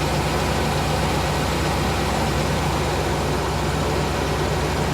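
1998 GMC Savana's 5.7-litre V8 idling steadily while it warms up from a cold start.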